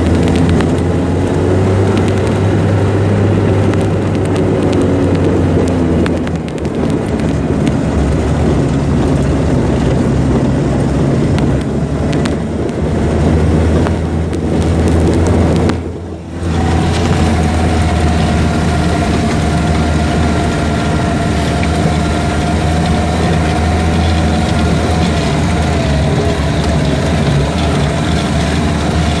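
Vehicle engine running steadily under way on a rough dirt track, heard from inside the cabin. The sound dips briefly about sixteen seconds in, and after that a steady whine sits over the engine hum.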